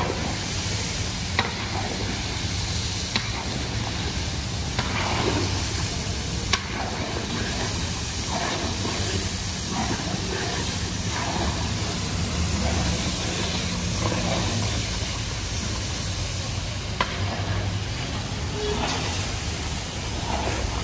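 Food frying and sizzling in hot oil while it is stirred, with a few sharp clacks.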